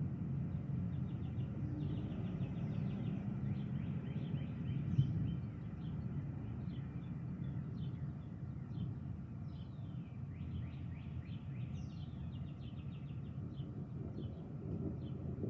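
Small birds chirping and trilling in quick runs of short falling notes, over a steady low rumble.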